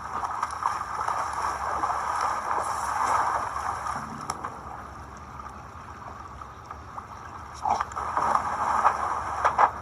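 River water flowing and splashing steadily, with a few louder splashes near the end.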